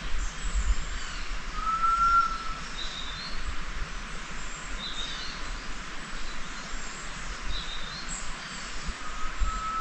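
Wild birds calling: a drawn-out whistled note about two seconds in and again near the end, with short higher chirps scattered between, over steady outdoor background noise.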